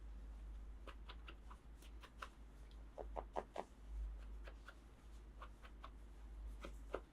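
Small plastic toy pieces being handled, giving faint scattered clicks and taps, with a quick cluster of clicks about three seconds in and another near the end.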